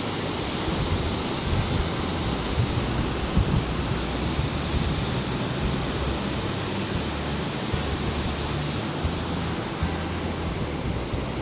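Teesta river rushing with a strong current, a steady noise of fast-flowing water, with some low wind rumble on the microphone.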